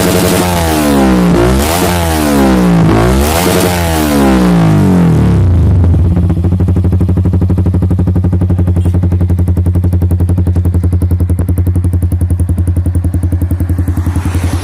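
Motorcycle engine through a WRX GP K1 aftermarket exhaust, revved up and back down quickly about three times, then dropping to a steady, pulsing idle about five and a half seconds in.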